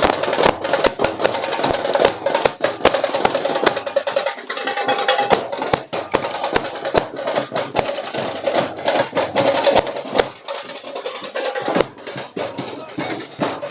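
Percussion-driven street-dance music: drums and many sharp clacking strikes in a fast rhythm over a melodic line.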